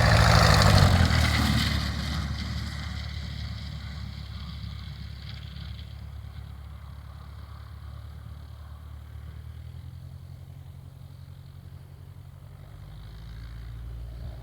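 Light aircraft piston engine and propeller, loudest about a second in, then fading to a steady low drone that swells slightly again near the end.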